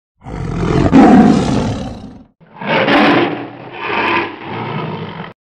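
Tiger roaring twice: one roar of about two seconds, then a longer one that swells twice and cuts off suddenly near the end.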